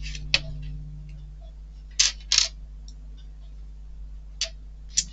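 Small model-kit parts being handled on the bench: about five short, sharp clicks and taps, two close together about two seconds in, over a faint steady low hum.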